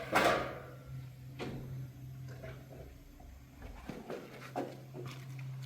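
A loud knock or bang just after the start that fades quickly, then a few lighter knocks, over a steady low hum.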